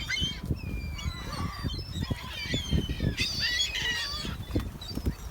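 A flock of birds gathering for food, calling over one another in many short, overlapping gliding cries, with frequent low thumps under them.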